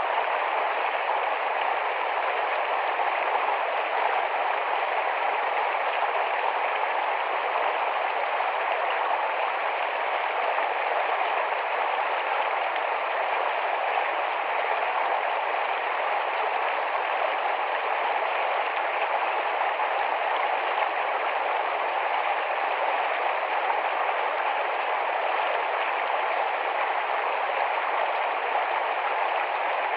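Small, fast-flowing forest stream running steadily, an even rush of water with no breaks.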